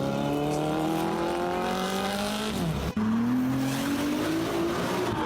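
Supercar engine accelerating, its note climbing steadily; near three seconds in the note drops and breaks off for an instant, then climbs again.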